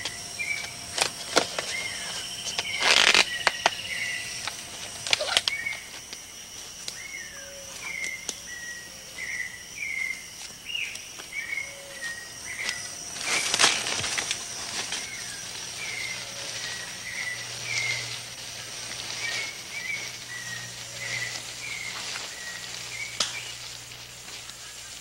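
Amazon rainforest ambience: a steady high insect drone and a short chirping call repeated about once a second, broken by a few loud sudden scraping or knocking noises, the strongest about three seconds in and near the middle.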